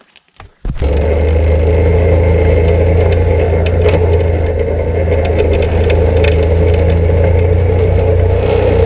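Can-Am Outlander 800's Rotax V-twin engine running with a steady, loud drone that cuts in suddenly under a second in, with a few light clicks and rattles over it.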